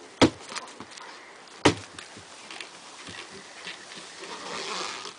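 Two sharp knocks about a second and a half apart, over faint background noise.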